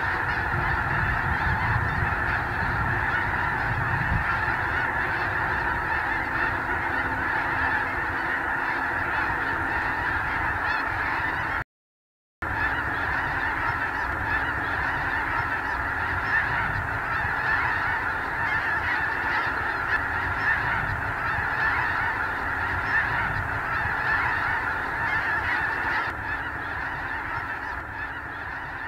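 Thousands of snow geese calling at once: a dense, unbroken chorus of honking from a huge flock. A split-second dropout to silence breaks it about twelve seconds in.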